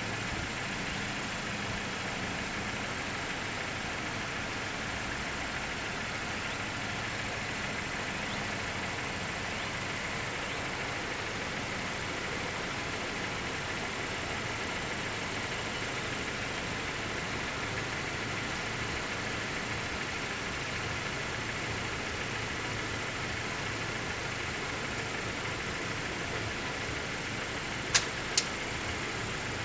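Steady hum of an idling engine, with two sharp clicks close together near the end.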